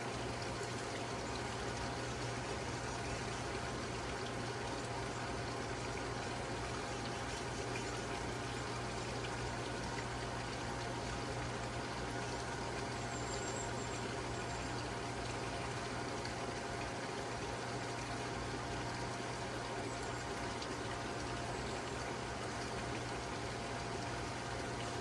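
Water running steadily over a low, steady hum.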